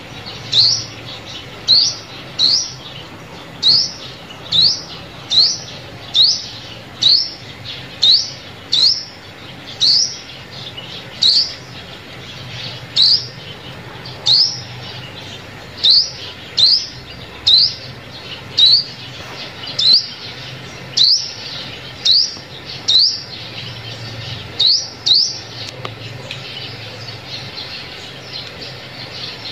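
Sunbird calling: a series of short, sharp, high chirps at about one a second, which stop a few seconds before the end, over a faint low hum. It is a sunbird lure call, played to draw sunbirds in.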